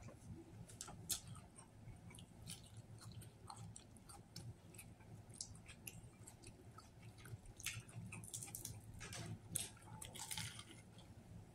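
A man chewing a sub sandwich, with many small wet mouth clicks and smacks. The sounds grow busier and louder near the end as he bites into the sandwich again.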